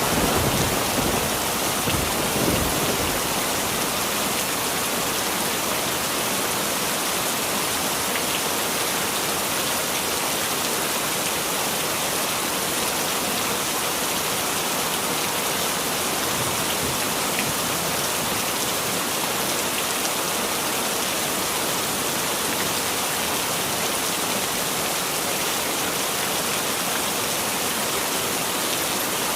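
Heavy rain falling steadily in an even hiss. The tail of a thunder rumble dies away in the first few seconds.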